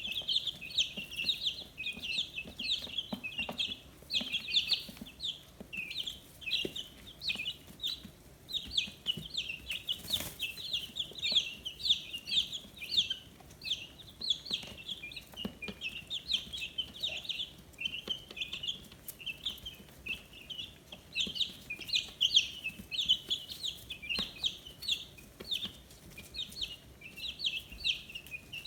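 A brood of 15-day-old chicks peeping continuously: many short, high chirps overlapping in a steady chorus.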